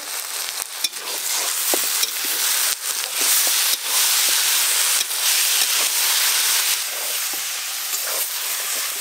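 Fried onions and ginger-garlic paste sizzling in hot mustard oil in a metal kadai, with a metal spatula scraping and clacking against the pan as it is stirred.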